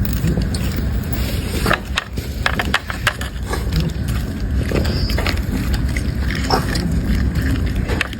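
A dog chewing and crunching food: irregular sharp crunches over a steady low rumble.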